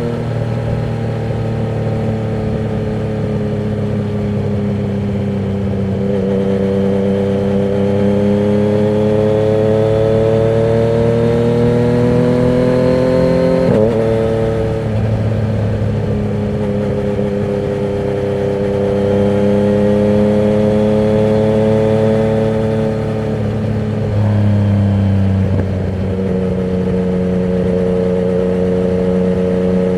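Yamaha MT-09 inline-three motorcycle engine running through a Termignoni exhaust with the dB killer removed, on the move. The engine note climbs slowly in pitch under throttle, drops sharply about halfway through, climbs again and drops again near the end before settling at a steady pitch.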